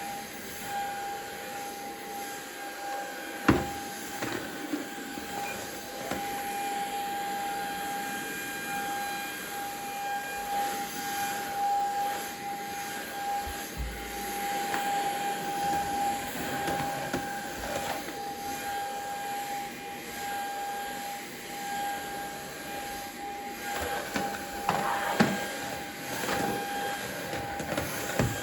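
A household electric motor running steadily with a constant whine, with a few sharp knocks, the loudest about three and a half seconds in and near the end.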